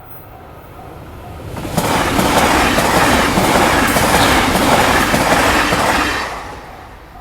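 Train passing through a Japanese level crossing, loud for about four seconds from roughly two seconds in, its wheels clacking over the rail joints, then fading away. The crossing's warning bell rings steadily at about two dings a second, faint under the train and clear before and after it.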